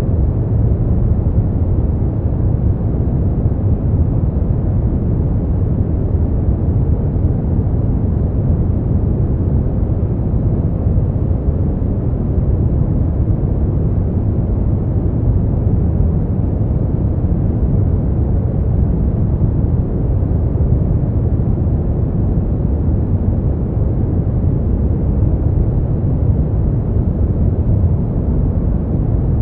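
Brown noise: a steady, deep rumbling hiss with most of its energy in the low end and little above a few thousand hertz, unchanging throughout.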